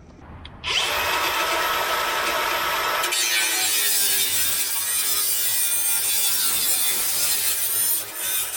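A power tool cutting, likely a power saw. It starts abruptly under a second in, changes pitch about three seconds in, and stops near the end.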